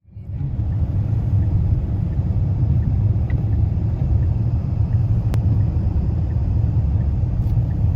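Steady low rumble of a car driving, fading in at the very start, with a single click about five seconds in.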